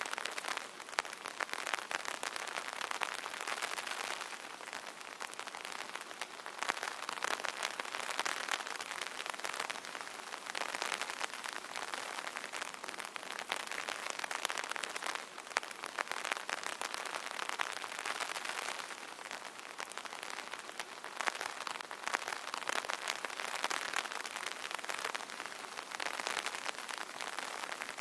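Light rain pattering on an umbrella canopy: a dense, steady spatter of small drop ticks that swells and eases every few seconds.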